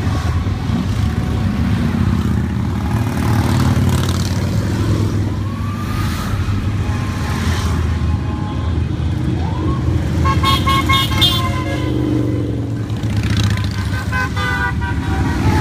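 A procession of motorcycles passing with engines running in a steady low rumble, and a horn honking about ten seconds in and again near the end.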